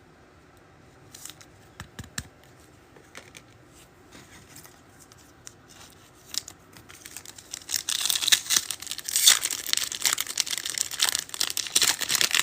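A few light clicks of cards being handled, then, from about halfway through, a Panini Prizm blaster pack's foil wrapper being torn open, crinkling loudly.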